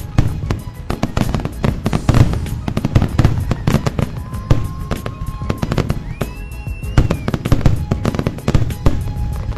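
Fireworks grand finale: a dense, unbroken barrage of bangs and crackling shells, several a second, with a few whistling tones over it, one rising then holding about six seconds in.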